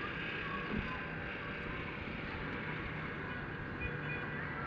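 Steady rushing noise of wind through trees, with a few faint short chirps.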